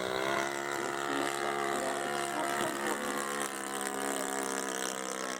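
Saito .91 four-stroke glow engine of an RC model plane running steadily in flight, a continuous drone whose pitch shifts slightly up and down as the plane flies about.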